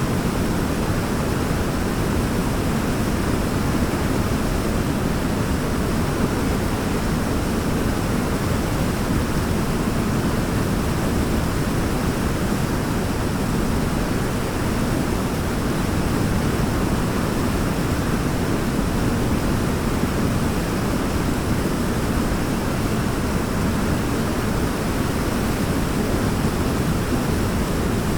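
Waterfall: falling water making a steady, deep rushing noise with no breaks or changes.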